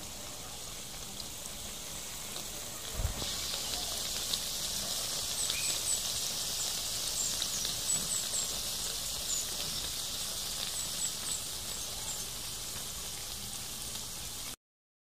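Saba banana pieces frying in oil with brown sugar caramelizing onto them: a steady sizzle with small crackles of popping bubbles. It grows louder about three seconds in, with a soft low thud at that point, and stops abruptly just before the end.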